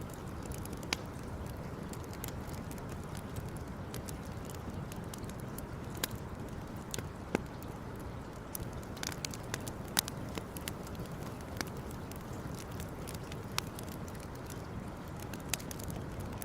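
Wood campfire crackling: irregular sharp pops and snaps, the loudest about ten seconds in, over a steady low background rush.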